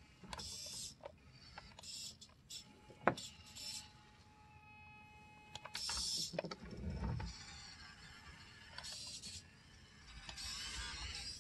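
Handling of small plastic 1:32 Siku toy vehicle models: intermittent scrapes and rattles, with a sharp click about three seconds in.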